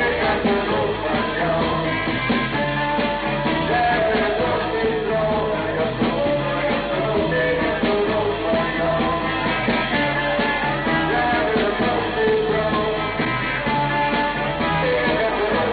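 Live 1960s beat-group rock band playing with a singer, on a lo-fi recording without much treble: electric guitars, bass and drums.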